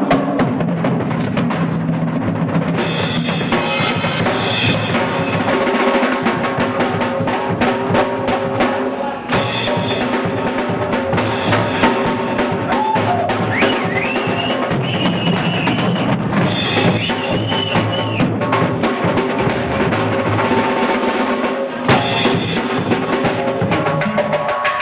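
Blues band playing, with the drum kit driving a steady beat under sustained, bending lead notes.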